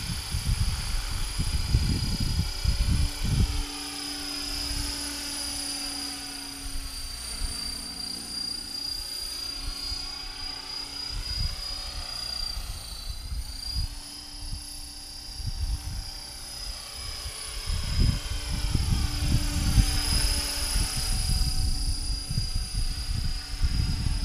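HK-500GT electric RC helicopter in flight: the high steady whine of its Turnigy Typhoon 500H brushless motor and drive, over the hum of the rotors. The sound swells and fades as the helicopter moves nearer and farther away. Wind buffets the microphone in the first few seconds and again from about two-thirds of the way in.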